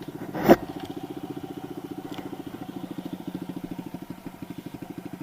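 Kawasaki KLX110 pit bike's small single-cylinder four-stroke engine idling steadily with an even, rapid pulse. A brief rustle cuts in about half a second in.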